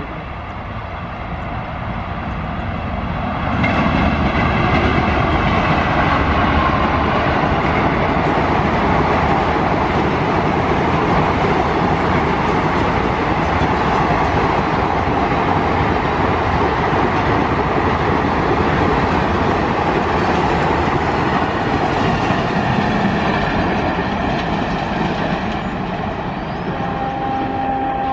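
Electric-hauled express passenger train passing at speed: the noise of wheels and coaches on the track builds up about three seconds in as the train reaches the microphone. It stays loud and steady while the long rake of coaches goes by, then eases off near the end as the train moves away.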